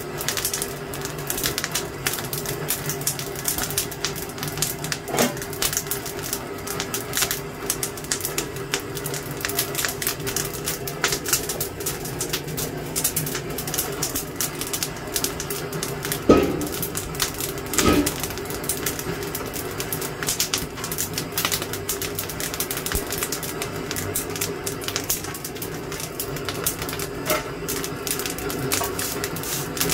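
Wood fire crackling and popping, a dense irregular run of sharp clicks over a steady low hum, with two louder knocks about 16 and 18 seconds in.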